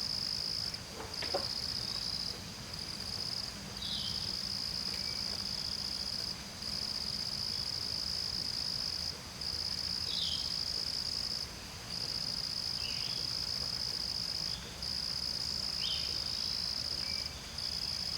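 Insects trilling: one high, steady trill in long phrases, broken by brief pauses every couple of seconds. A few short, falling chirps are heard over it, about four times.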